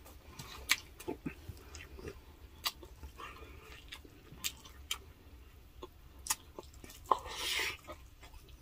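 Close-miked chewing of grilled chicken eaten by hand: scattered wet mouth clicks and smacks, with a short breathy rush of noise about seven seconds in.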